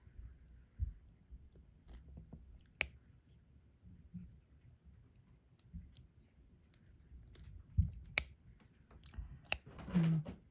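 Scattered light clicks and soft taps of a diamond-painting pen picking up and pressing small resin drills onto the adhesive canvas, with handling of the drill tray. A brief voiced sound near the end.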